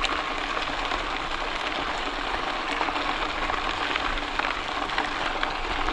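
Steady crackling rolling noise of a bicycle riding uphill along a rail trail, with faint scattered ticks.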